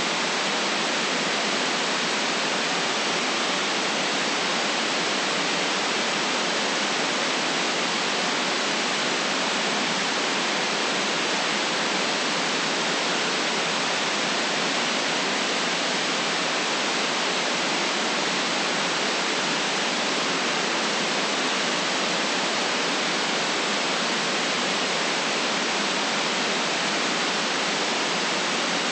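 Steady, unchanging synthetic white noise: an even hiss with no rhythm or events, lacking deep bass and cut off above the upper treble.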